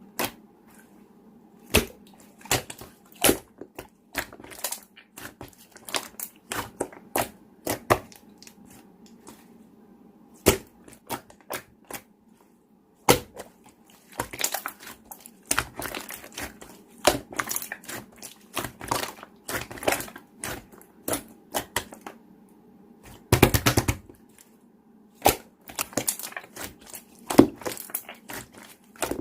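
Slime being pressed and squeezed by hand, giving irregular crackles and pops of trapped air over a faint steady hum.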